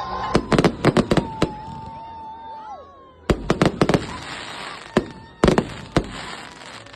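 Fireworks going off in three quick volleys of sharp bangs and cracks, with a crackling fizz between the second and third volleys. A long steady tone under the first volley slides down a little and stops about three seconds in.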